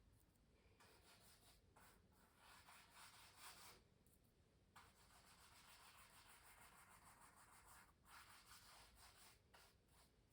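Faint strokes of an art tool rubbing across canvas, in several passes with short pauses between them; the longest runs about three seconds.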